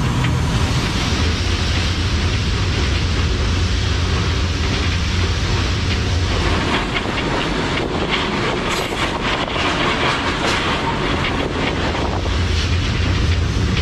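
Freight train running, heard from aboard a wagon: a steady heavy rumble and rushing noise, with a run of wheel clacks over the rail joints from about halfway through.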